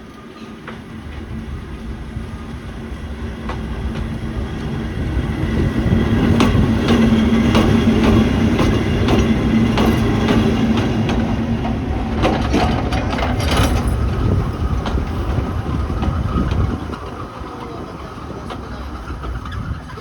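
Kurobe Gorge Railway train running on its rails, a steady rumble with rapid clicking and clattering of the wheels over the track. It grows louder over the first several seconds, is loudest and most clattery through the middle, and drops back noticeably near the end.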